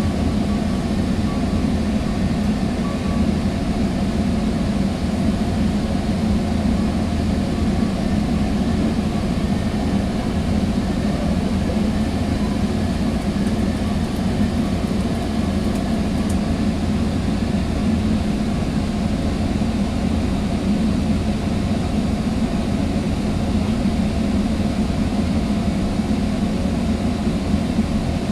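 Sounder commuter train under way, heard from inside a passenger coach: a steady, unbroken rumble of wheels on rail and running gear.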